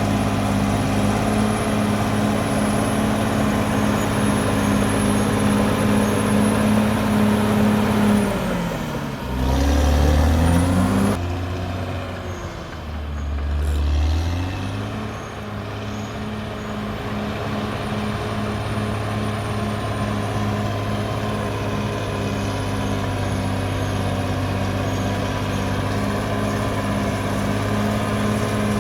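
Caterpillar D6R XL bulldozer's diesel engine running steadily under work. About eight seconds in the engine note sinks and runs low and uneven, then climbs back to its steady pitch by about fifteen seconds in.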